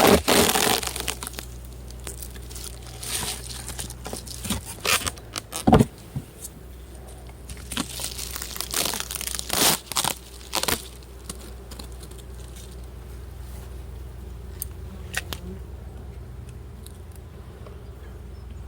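Wooden beehive frames and boxes being pried apart and handled with a hive tool: a run of sharp cracks, scrapes and crinkles, busiest over the first ten seconds or so, then only a few clicks. A low steady hum runs underneath.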